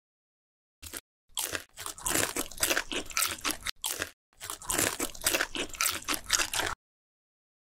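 Crunching and chewing of crispy guobaorou, fried pork in a crackly potato-starch batter, in two runs of a couple of seconds each with a short break between. The sound cuts off sharply each time.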